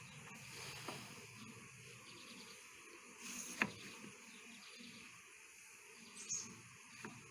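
Faint outdoor ambience with steady insect chirring, broken by a few sharp clicks; the loudest click comes about halfway through.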